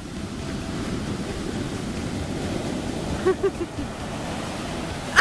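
Ocean surf: a wave breaking and washing up the beach, a steady rush, with wind on the microphone. A faint distant voice briefly about three seconds in.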